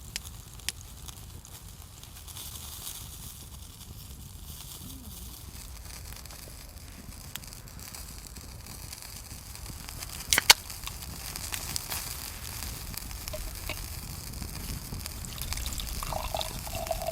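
Food grilling on skewers over a charcoal and wood fire: a steady sizzling hiss broken by a few sharp crackles, the loudest a double pop about ten seconds in.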